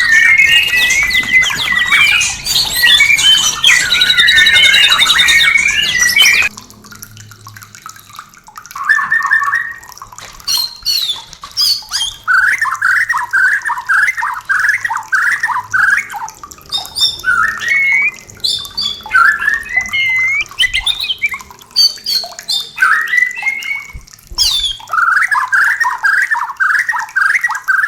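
White-rumped shama song. A loud, dense run of varied song stops abruptly about six seconds in. It is followed by repeated bouts of quick rising notes and upslurred whistles.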